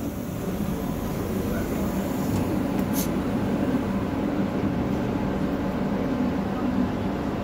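Steady low hum and rumble of a CAF electric commuter train's onboard equipment while it stands at a station, with one sharp click about three seconds in.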